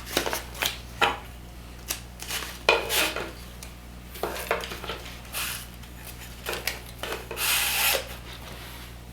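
Irregular clicks, knocks and short scrapes of a cellular shade's bottom rail being slid into the pleated fabric, with one longer scrape near the end.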